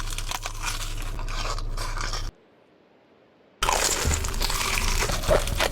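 Close-up crunchy chewing of food, in two stretches that start and stop abruptly with a short near-quiet gap between them; a low hum runs under the first stretch.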